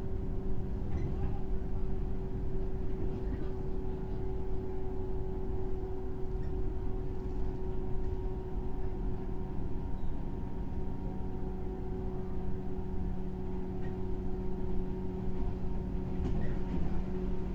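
JR West 103 series electric train, motor car with MT55 traction motors, running at steady speed: the motors and gearing hum with a steady pitch over the rumble of wheels on rail, heard from inside the car.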